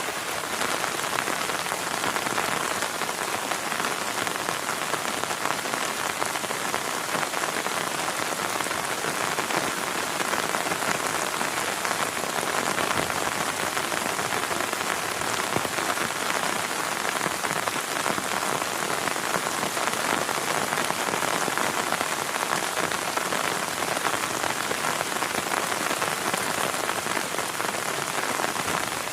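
Heavy rain falling steadily: a dense, even patter with no let-up and no thunder.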